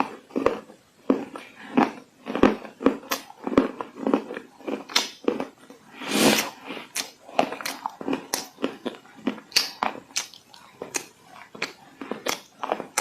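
Close-up crunching and chewing of dry edible clay: a run of sharp, irregular crunches, roughly two a second, with a longer, louder crunch about halfway through.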